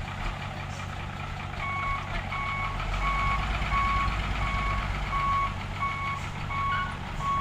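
Reversing alarm on a heavy construction vehicle beeping steadily, starting about a second and a half in at roughly one and a half beeps a second, over a low engine rumble that grows louder about three seconds in.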